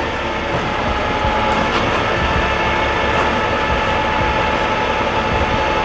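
Heavy truck's diesel engine running steadily at close range, a dense even drone with faint steady tones in it.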